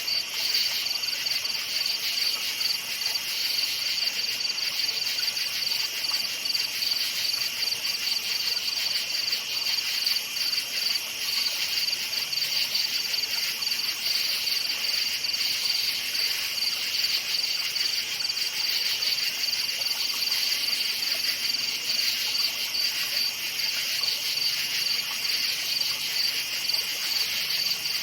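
A chorus of crickets chirping at night: a dense, continuous high-pitched trill that holds steady throughout.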